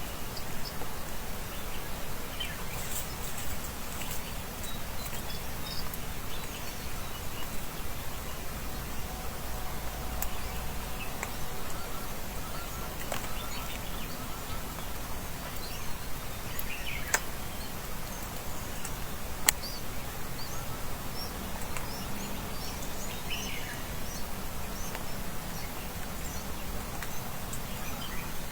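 Wild birds chirping now and then over a steady outdoor background hiss, with a few sharp clicks, two of them standing out about two-thirds of the way through.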